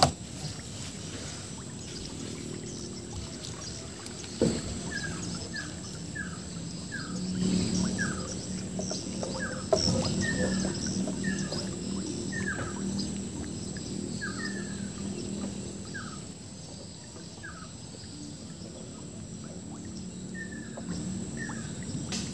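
A bird calling over and over with short, falling chirps, about one or two a second, starting about five seconds in, over a steady low hum. A sharp knock comes about four seconds in and another near ten seconds.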